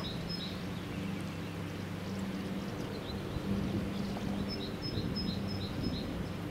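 A songbird's repeated chirping phrase, a quick run of short chirps at the start and again from about four and a half seconds in, over a steady low hum.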